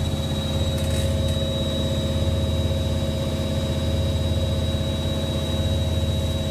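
Hoover Logic 1300 washing machine spinning fast: a steady motor whine over a deep drum hum.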